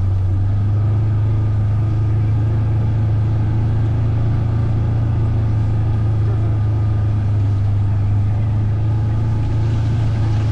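Vehicle engine running at a steady pitch, a constant low drone heard from on board while riding.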